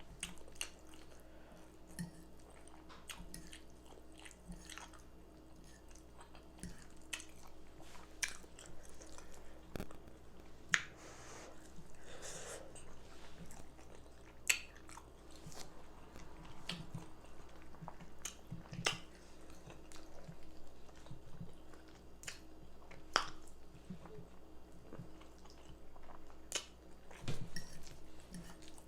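Close-up chewing and eating of baked chicken with rice and gravy: irregular wet mouth sounds, smacks and small clicks, with a few sharper snaps scattered through.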